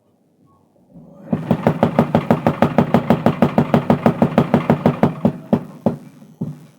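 Mechanical power hammer forging a steel crowbar: a fast, even run of blows, about seven a second, over the low hum of the machine's motor. The run stops after about four seconds, followed by a few single blows.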